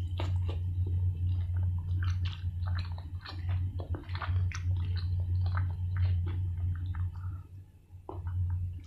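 Chewing a bite of crispy fried chicken in Samyang hot sauce: a quick, irregular run of short crunchy clicks and mouth sounds, easing off briefly near the end, over a steady low hum.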